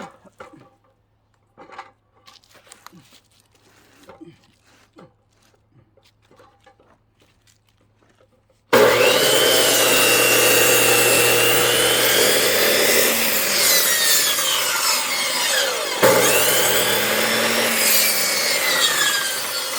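A few faint knocks, then about nine seconds in a circular saw suddenly starts cutting into a log and runs loudly. Whistling tones bend up and down as the blade takes the load, with a sharp knock about sixteen seconds in.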